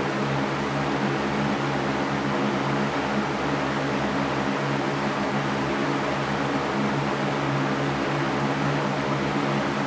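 Electric fan running steadily: an even whooshing hiss with a low motor hum that does not change.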